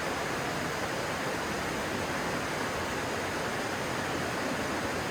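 Stream water flowing, a steady, even noise with no breaks.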